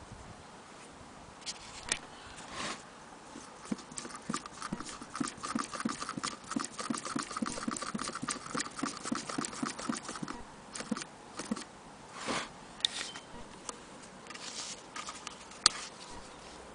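Antique Willcox & Gibbs chain-stitch sewing machine being turned over, its mechanism clicking quickly and evenly several times a second for about six seconds, with a few separate knocks before and after.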